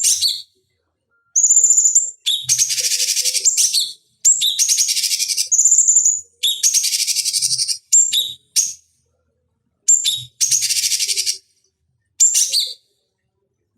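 Cucak cungkok song: a high clear whistle followed by a fast, dense rattling chatter and a few short notes, the phrase repeated about every two seconds with silent gaps between. It is the loud, repeated call used as a masteran to make other songbirds answer.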